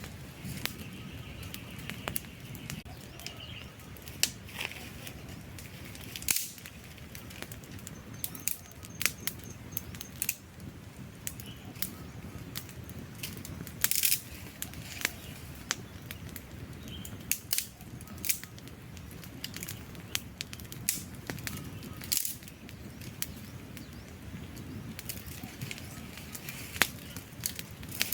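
Wood campfire burning: a steady low rush of flame with frequent irregular crackles and sharp pops from the burning logs, a few of them much louder than the rest.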